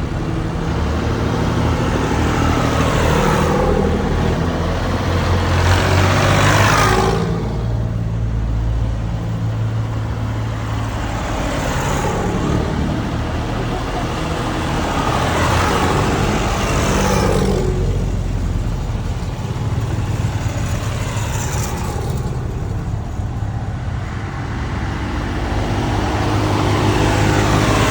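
Tractors on a tractor run passing one after another, about every five seconds, over a steady low engine drone. Each pass rises and then falls in pitch as it goes by.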